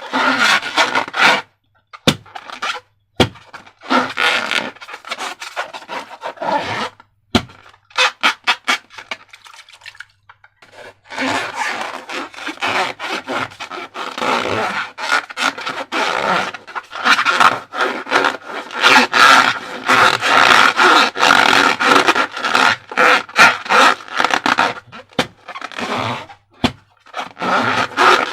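Slime being squeezed and worked by hand together with rubber balloons: sticky crackling, squelching and rubbing in irregular bursts. Broken by short pauses in the first ten seconds, then near-continuous from about eleven seconds in.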